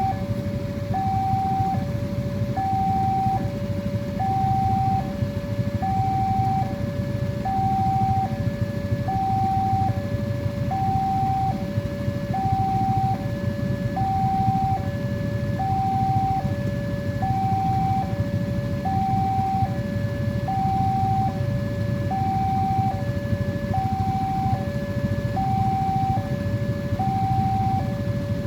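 Electronic two-tone warning alarm of an Indonesian railway level crossing, alternating steadily between a high and a low note about every three-quarters of a second, signalling that a train is approaching or passing. A steady low rumble runs underneath.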